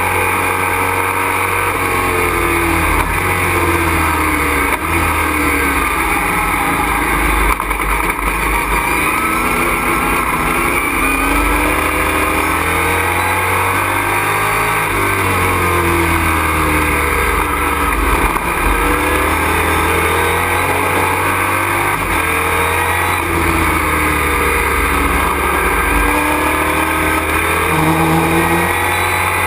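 Racing truck's engine heard from inside the cockpit while lapping at speed, loud and constant. Its pitch rises again and again under acceleration and falls back as it slows.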